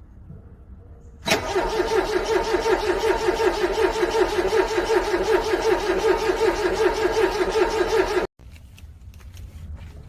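Car starter motor cranking a cold engine in a rapid, even rhythm for about seven seconds without it catching, then cutting off suddenly.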